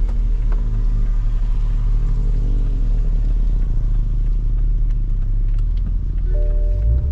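Toyota Supra MK5's turbocharged 3.0-litre inline-six engine and tyre rumble heard from inside the cabin; the engine note falls in pitch as the car eases off, then holds steady. A steady higher tone joins near the end.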